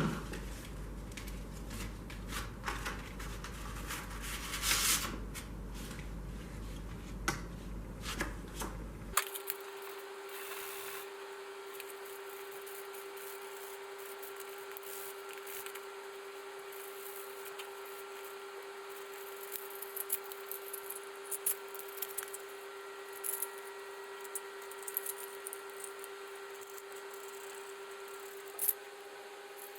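Small clicks, taps and rubbing of hand tools and small parts being handled on a workbench, scattered and irregular over a faint steady hum. The background changes abruptly about nine seconds in, after which the clicks come more sparsely over a steady faint tone.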